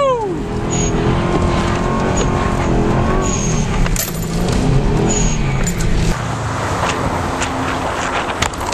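Subaru Legacy GT wagon's turbocharged flat-four revving up and down as the car drifts sideways on packed snow, at first heard from inside the cabin. A few sharp clicks come through, and toward the end the engine gives way to a steadier rushing noise.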